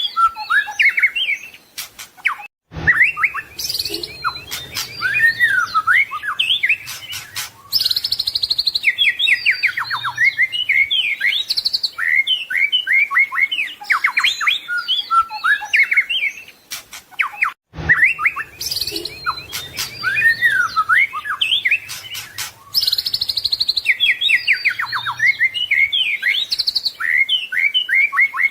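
White-rumped shama (murai batu) singing a fast, varied song packed with whistles, trills and mimicked phrases, with short breaks about two and a half seconds in and again near the middle. The same stretch of song repeats about every fifteen seconds, a looped recording.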